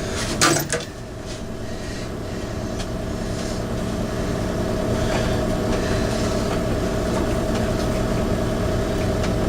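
A steady motor hum with a fixed pitch, growing louder over the first few seconds and then holding steady, after a short knock about half a second in.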